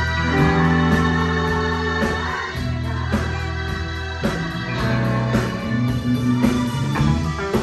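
A live band playing music, with held chords over a bass line that moves to a new note every second or so.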